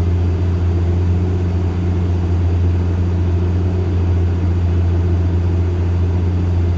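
Diesel engine of a light truck running at a steady, unchanging low pitch while the truck climbs a mountain road.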